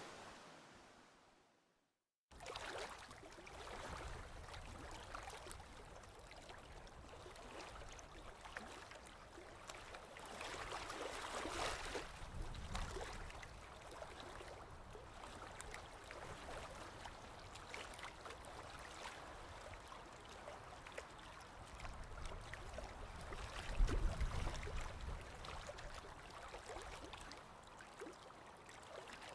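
Sea surf fades out into a brief silence, then a faint recording of gentle lapping and trickling water begins, with small crackles and a few soft low swells.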